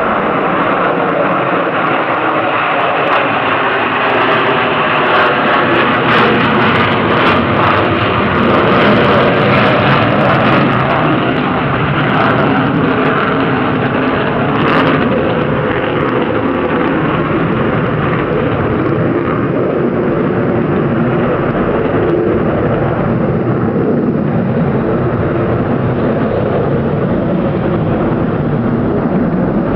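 Jet engine noise from a Rockwell B-1 Lancer bomber's four turbofans: a loud, steady rush with scattered sharp crackles through the first half.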